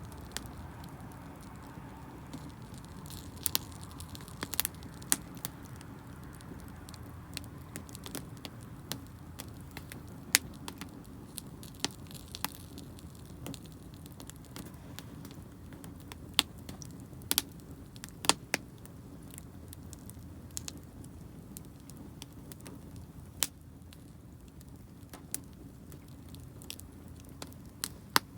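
Wood campfire crackling: irregular sharp pops and snaps, a few louder than the rest, over a steady low rumble.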